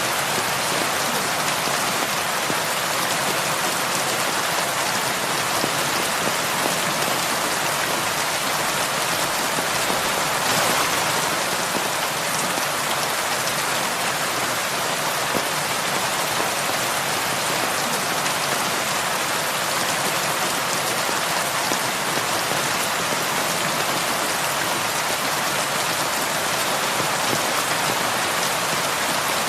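Heavy rain falling steadily, a dense even hiss of drops on surfaces, swelling briefly about ten seconds in.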